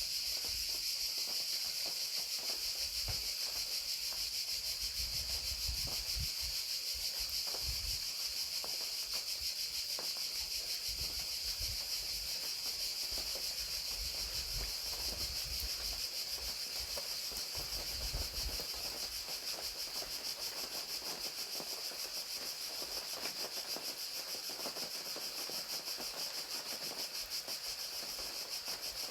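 Crickets trilling in a steady, high, unbroken chorus, with light rain pattering underneath.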